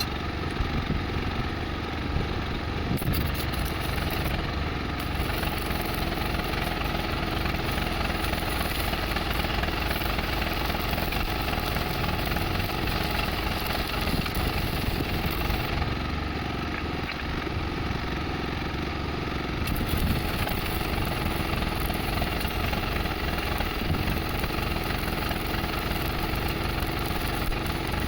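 An engine idling steadily, with an even, unchanging run.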